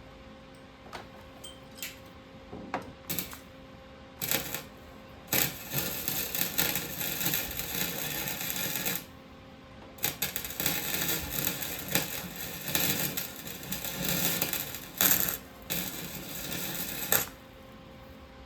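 Metalwork on a VW Beetle's floor tunnel: a few sharp metallic clicks, then two long stretches of harsh, uneven noise, about four and seven seconds long, with a short break between them.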